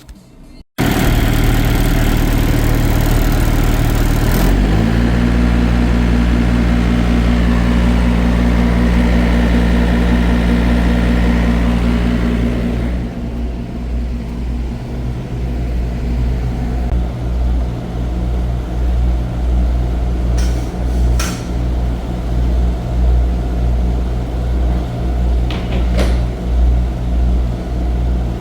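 Scania truck's diesel engine running steadily with a low hum; its pitch steps up a little about four seconds in.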